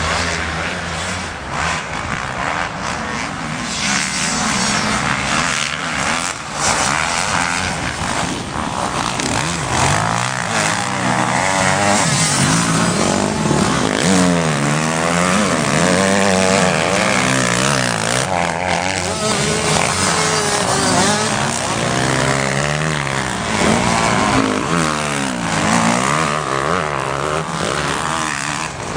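Several motocross bikes' engines running at once, their pitch repeatedly rising and falling as they rev up and shift through the gears, the overlapping notes sweeping up and down.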